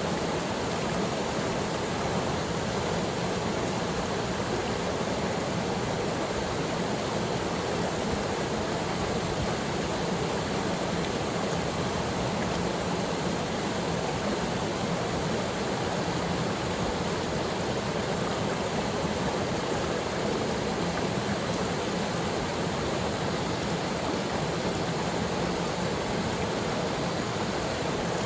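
Waterfall pouring steadily into its pool, a constant rushing of water with no breaks or changes.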